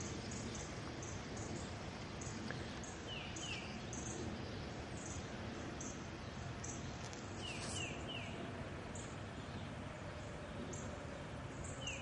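A bird calling outdoors in winter: a quick run of three short falling notes, heard three times about four seconds apart, over a steady background rumble of outdoor noise.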